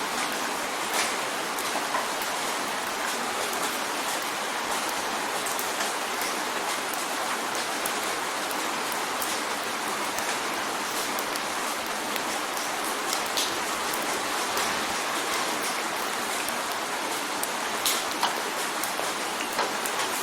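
Steady rain drumming on a window pane: an even hiss with scattered sharper ticks of single drops striking the glass.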